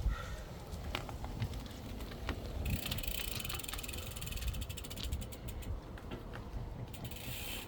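Bicycle freewheel ticking rapidly as the bike coasts, starting about a third of the way in and thinning out near the end, over a low rumble of wind on the microphone.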